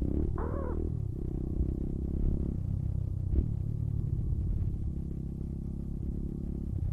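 Pit bike's small single-cylinder engine running at a steady, moderate speed while being ridden, heard from the bike.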